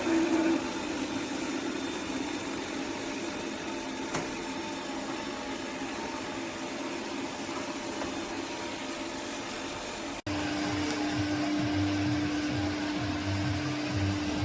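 ECOVACS Deebot T50 Omni robot vacuum running with a steady whir. About ten seconds in the sound cuts abruptly to a steady hum over a pulsing low beat.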